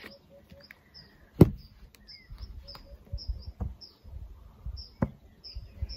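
Birds chirping outdoors: short high chirps repeating about twice a second, with fainter lower notes under them. A few sharp knocks break in, the loudest about a second and a half in.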